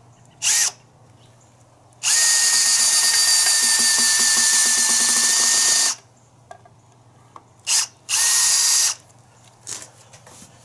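Power drill boring pocket holes for screw joinery: a brief spin, then one steady run of about four seconds with a high whine, then a short spin and a run of about a second near the end.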